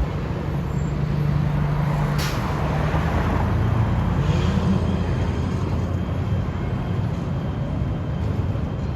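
A large transit vehicle running with a steady low hum, a short hiss about two seconds in, and the hum shifting upward in pitch around four to five seconds in.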